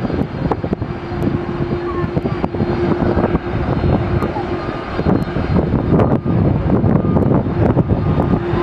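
Airliner engines running loud, a dense roar with a steady hum through it that drops away about five seconds in.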